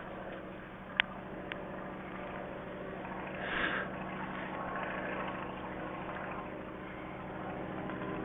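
Steady engine drone, with a sharp click about a second in and a brief hiss swelling up around three and a half seconds.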